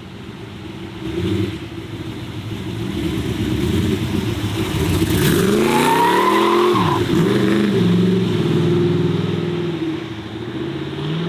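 Car engine accelerating past, loudest midway. The revs climb and drop about twice, and a brief falling whistle sounds just past the middle.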